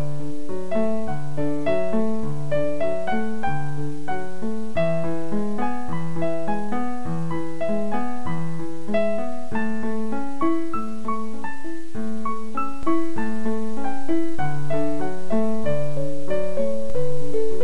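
Piano music, a steady run of single sustained notes with chords underneath.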